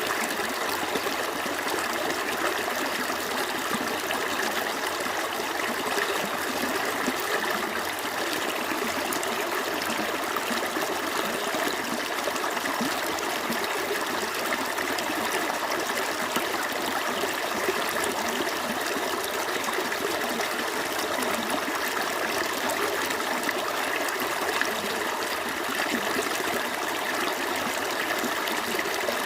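A small stream flowing steadily over stones, a continuous babbling and trickling rush of water.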